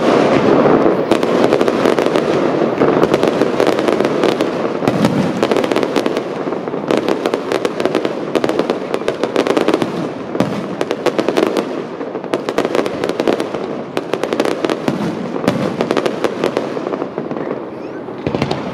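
Fireworks display: aerial shells bursting with a dense, continuous crackle of many sharp pops and bangs in quick succession, easing slightly near the end.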